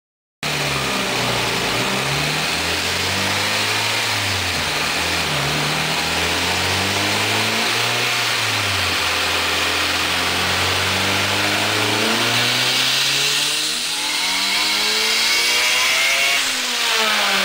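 Turbocharged Honda B18C GSR 1.8-litre four-cylinder, fed by a Garrett turbo at 15 psi, running under load on a chassis dyno in an EG Civic. The engine note wavers at first, then climbs steadily in pitch through the last few seconds of the pull and stops suddenly.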